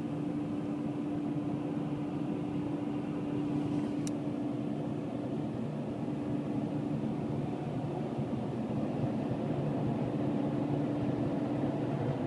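Steady mechanical drone of car wash machinery heard from inside a car, with a constant pitched hum. A single sharp click about four seconds in.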